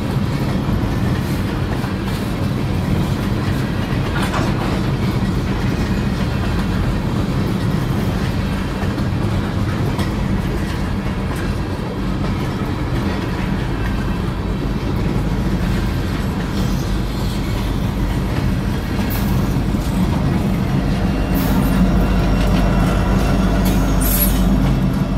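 Kansas City Southern de México freight train passing close by: the steady rumble and clatter of loaded gondola cars' wheels over the rail joints, with scattered clicks. Near the end, a rear diesel locomotive goes by and the rumble grows louder and deeper.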